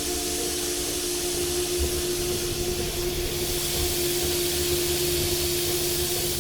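Christ Auto-Jet C115 car wash spraying water onto the car, heard from inside the car: a steady hiss of spray hitting the body and glass over a steady machine hum. The spray grows stronger about three and a half seconds in.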